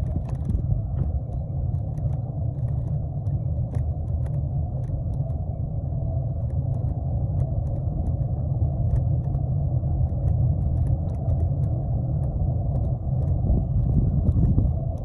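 Steady low rumble of wind buffeting the microphone and tyre noise while riding a bike, with faint scattered small clicks and rattles.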